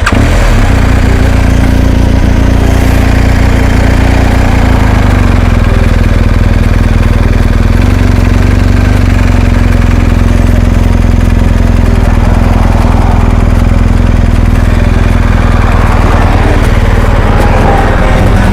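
Motorcycle engine running steadily, its pitch holding nearly constant.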